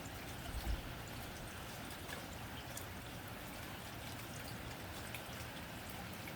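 Steady rain on a tin roof: an even hiss with scattered single drops ticking on the metal. A low thump sounds a little over half a second in.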